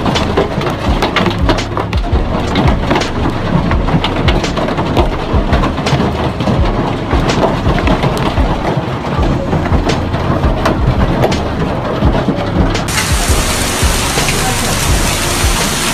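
Hailstorm: hailstones pelting down in a dense patter with many sharp separate impacts. The sound turns brighter and hissier about 13 seconds in.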